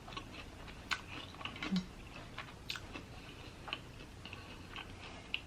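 Close-miked chewing of a potato-crusted Korean mozzarella corn dog: faint, irregular wet mouth clicks and small crunches.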